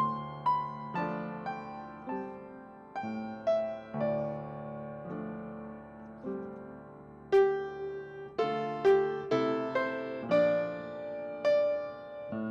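Solo piano playing a slow, gentle piece, each note ringing and fading; the notes come more often and brighter from a little past halfway.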